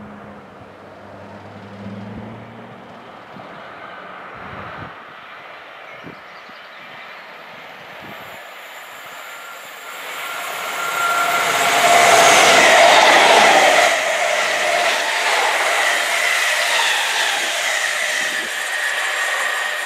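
Train approaching and passing the platform at speed: the rail noise builds from about halfway through, is loudest a couple of seconds later, then runs on steadily with a few steady whining tones over it.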